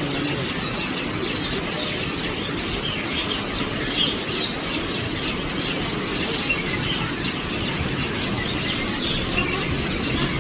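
A flock of small birds chirping continuously in many short, high, quick notes. A steady low background din runs underneath.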